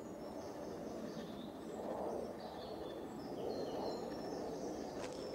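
Small songbirds chirping and twittering in short high calls over a steady low background rumble of outdoor ambience, with a single sharp click near the end.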